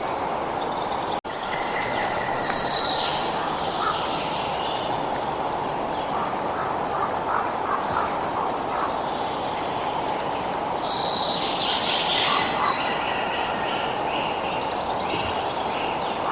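Birds calling and singing over a steady rushing background, with two busier bursts of song with falling notes, one a few seconds in and one past the middle. The sound cuts out for an instant about a second in.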